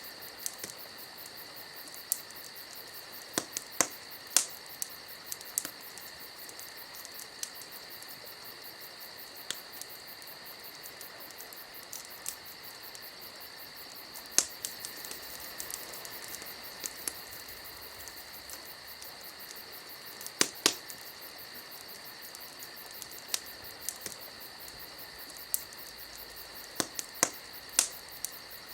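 Campfire crackling, with irregular sharp pops and snaps, several in quick clusters. Under it runs a steady high-pitched chirring, like crickets.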